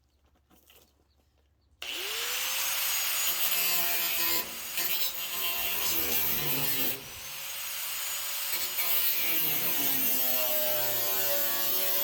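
Angle grinder switched on about two seconds in, spinning up with a rising whine and then cutting steel on the car's rear body. It eases off briefly twice and spins back up about seven seconds in.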